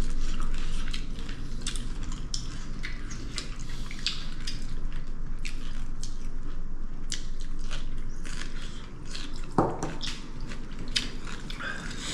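Close-up eating sounds: chewing and biting with many small clicks and crackles, and a sharp knock about two-thirds of the way through.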